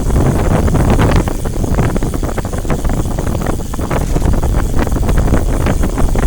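Loud wind buffeting the microphone: a steady low rumble broken by many short crackles.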